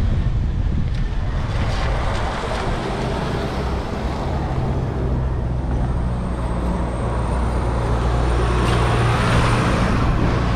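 Street traffic heard from a bicycle, with wind noise on the microphone; a motor vehicle's engine hum grows stronger about halfway through.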